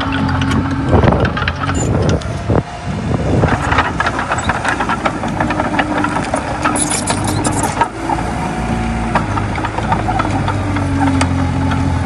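Komatsu D20A bulldozer's diesel engine running steadily under load, with frequent metallic clicks and rattles over the engine hum.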